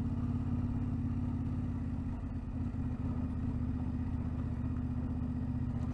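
Car engine running steadily while driving along a rough, broken road, heard from inside the cabin.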